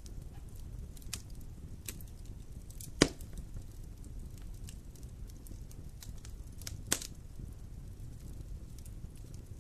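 Wood campfire burning with a steady low rumble and scattered faint crackles, and two sharp loud pops as the wood snaps, one about three seconds in and one near seven seconds.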